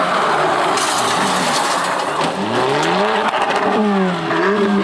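Rally car engine at full throttle, pitch climbing and dropping back sharply with each quick upshift, over a loud rush of tyre and road noise, with scattered crackles.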